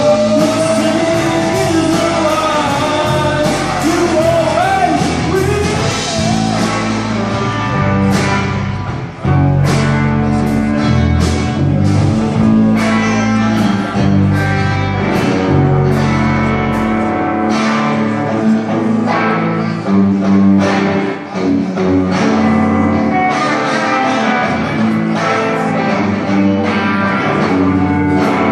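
Live blues song played on guitar with a sung vocal. The voice carries the melody for the first five or six seconds, then the guitar plays on alone with sharp, regular strummed strokes.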